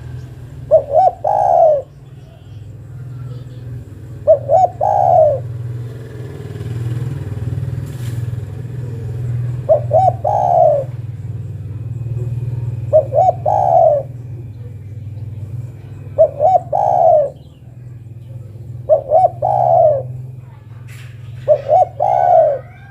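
Spotted dove (derkuku) cooing, which the title gives as a female calling to a male. Each phrase is two short notes then a longer drawn note, repeated seven times a few seconds apart over a steady low hum.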